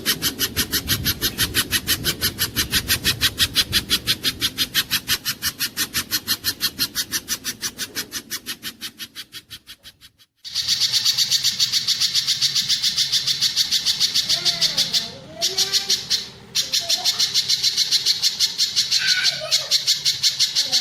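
Spiderhunter calls from a looped bird-training recording: a fast, even string of sharp chipping notes, about seven a second. The string fades out about halfway, breaks off, then starts again at full loudness with fainter sliding whistles underneath.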